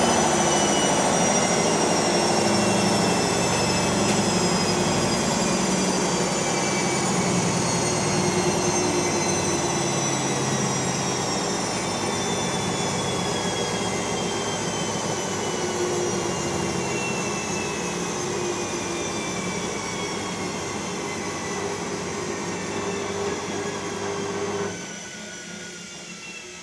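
Electrolux washing machine in its spin cycle, the drum and motor running loudly with a whine that falls steadily in pitch as the spin slows. About 25 seconds in, the low rumble cuts off suddenly and a fainter whine carries on. The noise is one the owner puts down to the ball bearings wearing after years of use.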